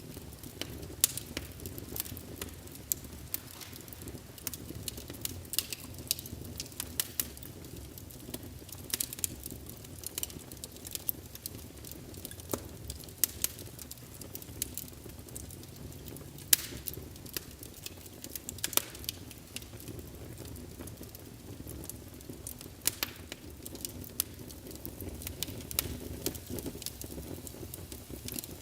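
Wood fire burning in a fireplace: irregular sharp crackles and pops of the logs over a low steady rumble of the flames.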